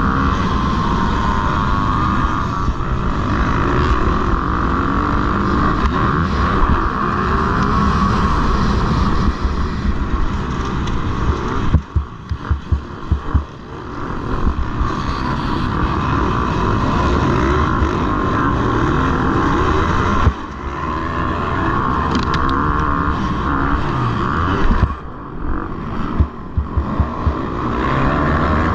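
Motocross bike engine running hard under race throttle. Twice, about twelve and twenty-five seconds in, the sound drops and stutters briefly as the throttle is chopped, then it picks up again.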